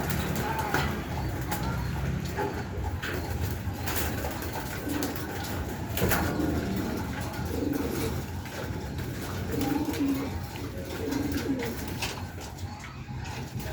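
Domestic pigeons cooing, a series of low repeated coos, with scattered sharp clicks or taps.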